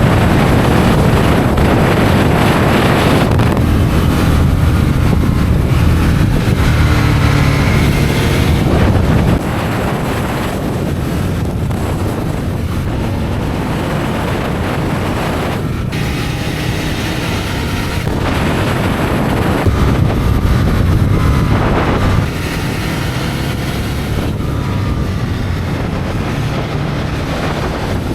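Aprilia RSV Tuono's 60° V-twin engine pulling hard under load, its pitch sweeping up and dropping as it changes speed, with wind rushing over the microphone.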